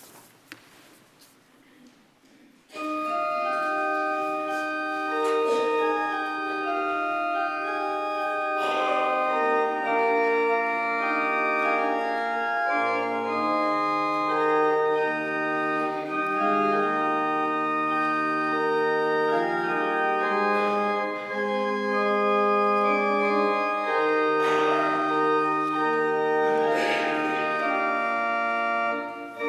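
Church organ playing a hymn in slow, held chords. It begins about three seconds in, after a short quiet pause.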